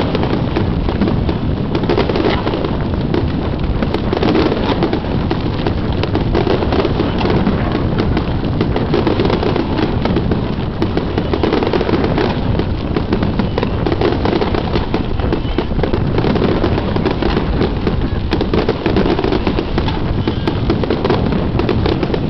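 Aerial firework shells bursting in a dense, unbroken barrage: many bangs in quick succession with no pause between them.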